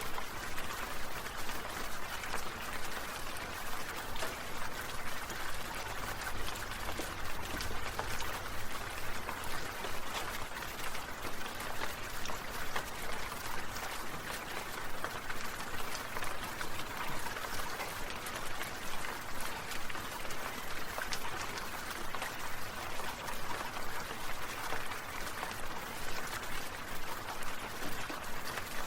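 Water sprinkler spraying, the water pattering and hissing with a regular pulse of about three surges every two seconds.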